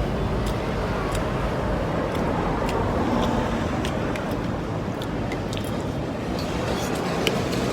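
Steady rumble of road traffic passing, with a few light clicks.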